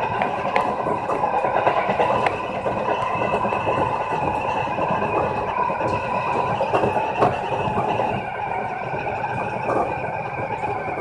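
Seibu Railway electric commuter train running at speed, heard from inside the front car: a steady rumble of wheels on rail with a constant hum, broken by a few sharp clicks.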